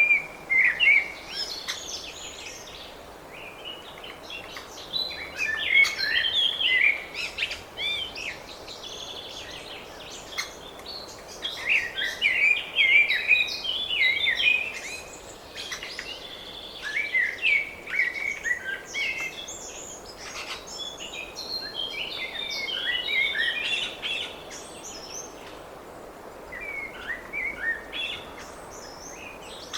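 Small songbirds chirping and twittering in clusters of quick, varied notes lasting a few seconds each, with short quieter gaps between.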